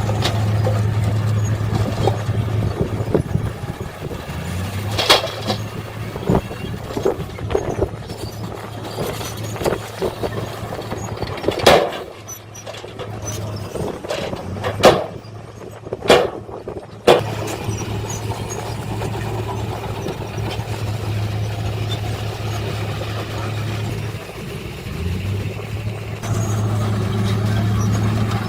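Heavy construction vehicle's diesel engine running steadily, with a string of sharp knocks and clanks in the middle stretch, the loudest four close together about halfway through, while the engine hum drops back; the hum returns to full strength near the end.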